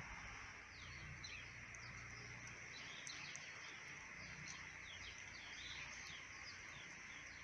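Faint songbird chirping: a quick series of short, falling chirps, a few each second, over a low steady background rumble.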